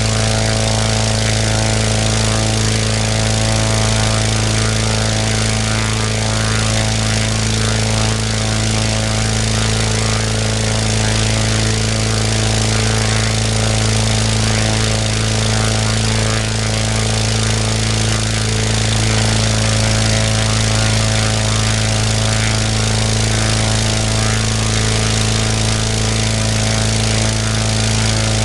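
Global half-VW engine, a two-cylinder four-stroke boxer built from VW Beetle parts, running steadily at a constant speed on a small single-seat aircraft, its propeller turning. The pitch and loudness stay even throughout.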